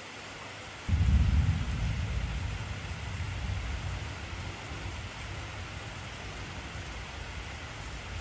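Heavy rain falling steadily, with a deep roll of thunder that breaks in suddenly about a second in and slowly fades away.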